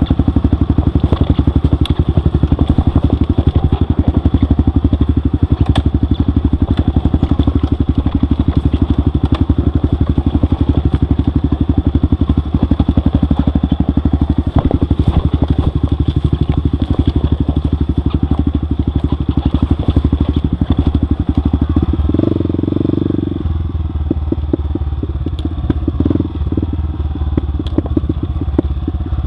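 Trail motorcycle engine running steadily at low speed in rapid, even firing pulses. About three-quarters of the way through its note changes briefly, and it runs a little quieter after that.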